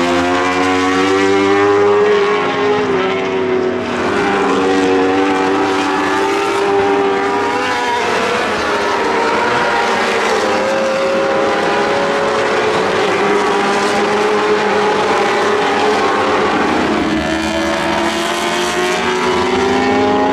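Several World Superbike racing motorcycles running at high revs, their engines rising and falling in pitch as they accelerate, shift and pass, with more than one engine heard at once.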